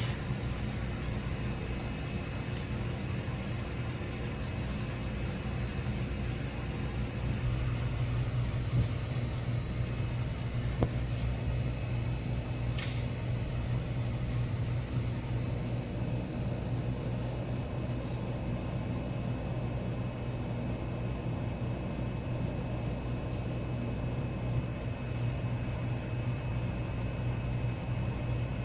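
A steady low mechanical hum with a faint constant high whine, broken only by a couple of brief clicks about eleven and thirteen seconds in.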